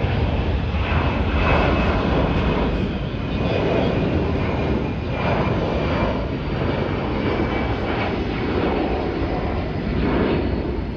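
Military jet aircraft in flight, its engine a loud, steady roar with a deep rumble that swells and eases over several seconds.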